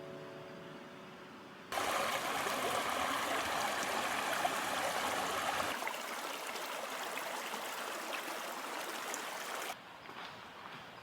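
A river stream babbling and rushing, cutting in suddenly about two seconds in and cutting out suddenly near the end, a little lighter from the middle on. A guitar chord is dying away at the start.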